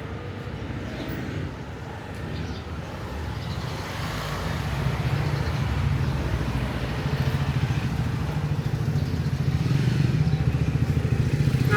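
A motor vehicle engine running in street traffic, growing louder from about four seconds in.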